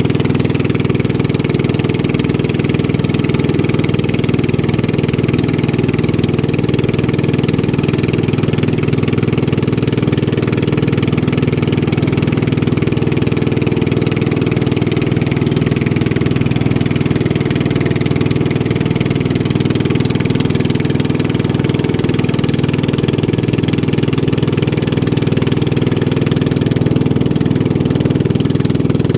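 Motorboat engine running steadily at an even speed, with no change in pitch.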